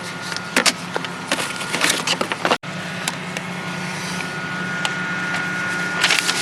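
Knocks and clatter of discarded household items being handled and rummaged through, over a steady low hum.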